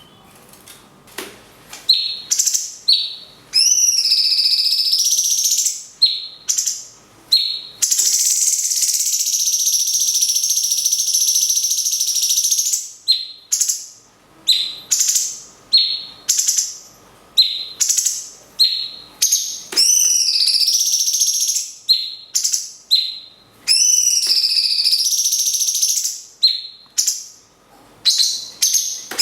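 A cucak cungkok and a lovebird singing in turn: bursts of short, loud whistled notes that glide up and down, and a long, harsh, unbroken chattering run from about eight seconds in that lasts some four seconds.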